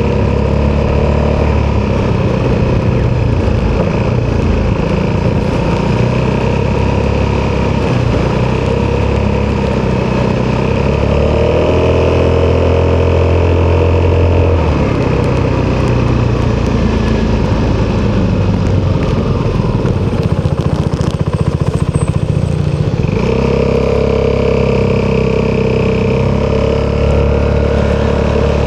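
Italjet Dragster 200 scooter's single-cylinder four-stroke engine running through an Akrapovic exhaust on the move. It picks up revs about eleven seconds in, eases off for several seconds, then pulls again about twenty-three seconds in.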